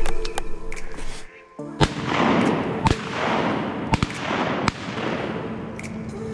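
A volley of shotgun shots at ducks: several sharp blasts spread over a few seconds, the loudest about two, three, four and four and a half seconds in, each trailing off in a long rolling echo, over background music.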